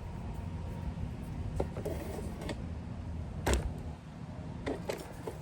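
Handling noises from a small engine's spark plug wire and parts: a few short clicks and knocks, the loudest about three and a half seconds in, over a steady low hum.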